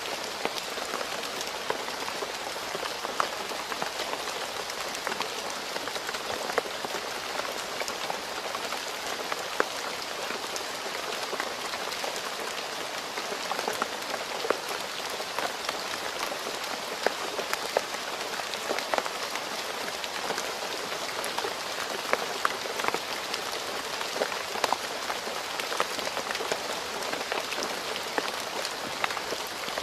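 Steady rain falling on a road, a dense even hiss with many individual drops ticking.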